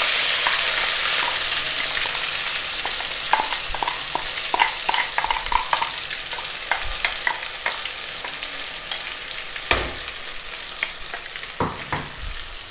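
Raw-ground onion-tomato masala paste dropped into hot sesame oil in a kadai: a loud sizzle at the start that slowly dies down. A metal spoon scrapes and taps against the bowl and pan many times as the paste is worked out.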